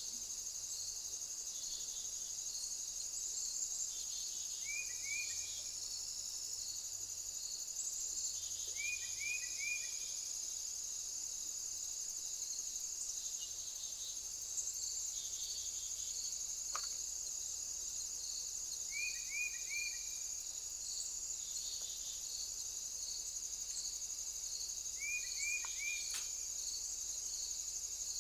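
A steady, high-pitched chorus of insects trilling. Every four to five seconds a bird breaks in with a short call of two or three quick falling notes.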